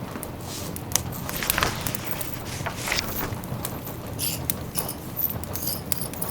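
Wood fire crackling in a fireplace, with irregular sharp snaps and pops, over a steady patter of rain.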